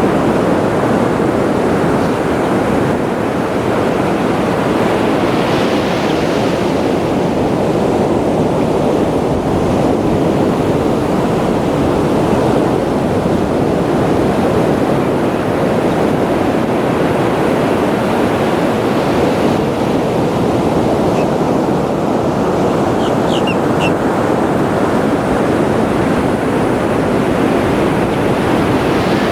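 Ocean surf washing onto a beach in a loud, steady, unbroken rush, with wind on the microphone.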